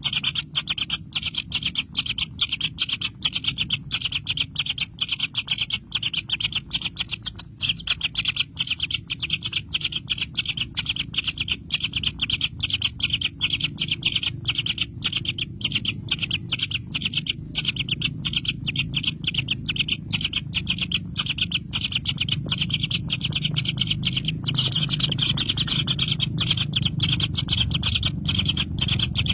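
Birds chirping in a rapid, continuous stream of high-pitched calls over a low rustling. The calls get louder near the end.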